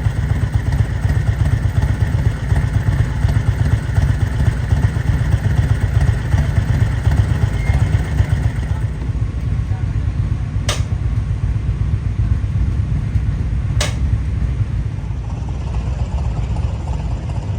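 Steady low engine rumble, with two sharp clicks about eleven and fourteen seconds in.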